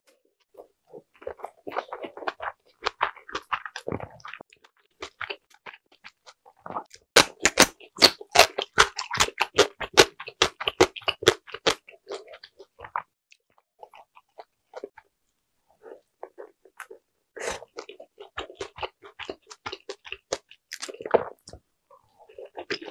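A person biting and chewing large Korean dumplings (mandu) with rapid clicking, crunching mouth sounds. They are densest and loudest from about seven to twelve seconds in, with a quieter spell after and more chewing near the end.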